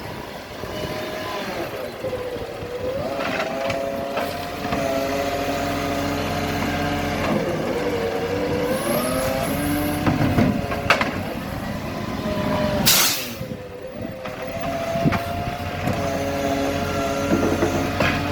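Garbage truck engine running and revving up and down several times, the pitch rising and falling. There is a short, sharp burst of air hiss about thirteen seconds in.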